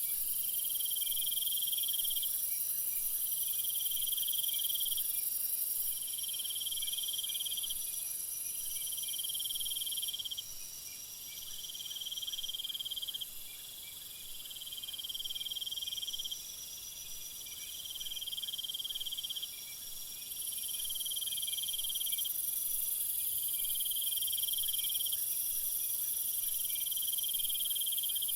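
Chorus of insects, crickets or similar, calling steadily: a high-pitched call repeating about every two seconds over a continuous higher hiss and trill.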